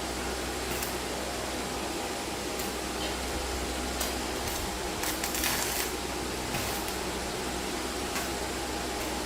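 Steady machine hum with a few short clicks and scrapes and a brief hiss about five seconds in.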